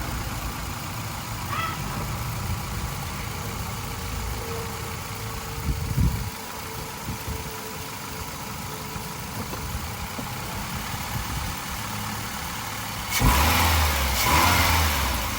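Nissan Altima engine idling steadily on a freshly replaced engine mount. There is a short thump about six seconds in, and a sudden, louder rush of noise near the end that lasts about two seconds.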